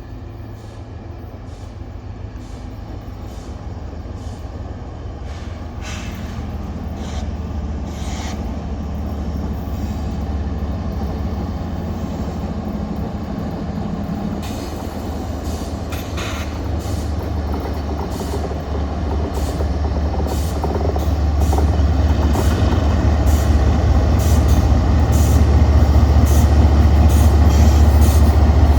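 Diesel-powered train approaching: the locomotive's low engine rumble grows steadily louder, with scattered sharp clicks from the wheels on the rails.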